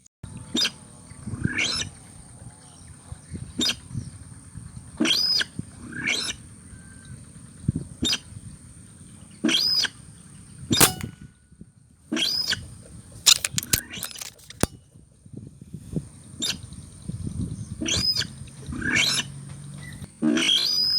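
Repeated loud calls of a sintar, a paddy-field rail, used as the lure sound in rail hunting. Each call is a quick sweep up in pitch and back down, coming about once a second with short gaps, over a steady high-pitched whine.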